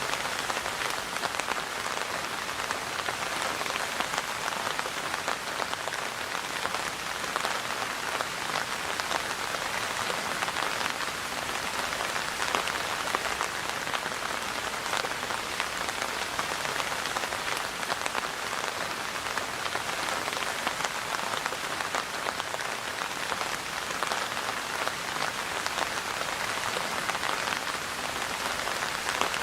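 Steady rain falling, with the fine patter of many drops striking a surface.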